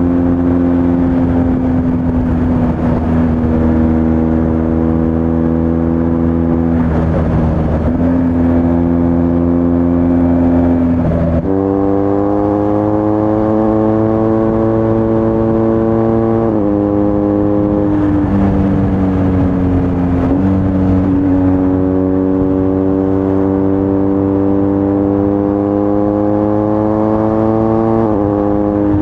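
BMW R1250 GS Adventure's boxer-twin engine through an Akrapovič titanium slip-on exhaust, under way. The engine note climbs slowly in each gear and drops sharply at several gear changes, with one sudden jump up in pitch about eleven seconds in.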